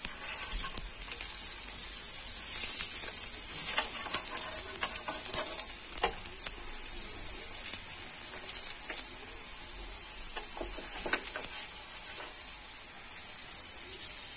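Soya chunk kebab patties shallow-frying in oil in a flat pan with a steady sizzle, with several clicks and scrapes of a steel spatula against the pan as the patties are turned over.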